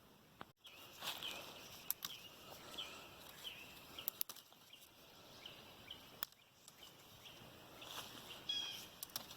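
A bird calling outdoors: a series of short, high chirps that slide downward, repeated about twice a second. A few sharp clicks fall in between.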